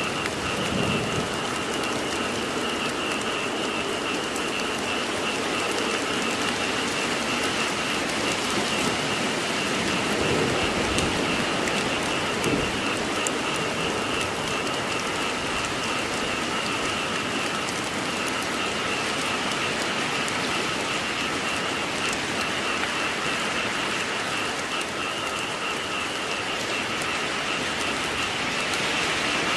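Steady rain falling, with a frog chorus calling in a continuous high, fast-pulsing drone behind it.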